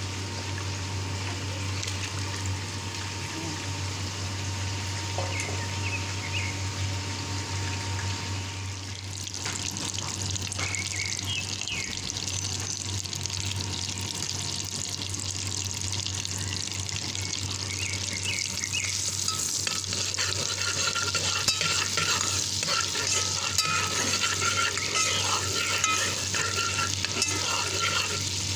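Chopped food frying in hot oil in a pan and being stirred with a metal spoon, over a steady low hum. The sizzle picks up about a third of the way in and grows louder and more crackly toward the end.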